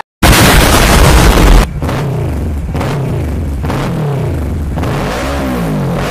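An explosion boom lasting about a second and a half. Then a Kawasaki ER6's 650 cc parallel-twin engine runs through its new F2Racing exhaust header and is revved up and down toward the end.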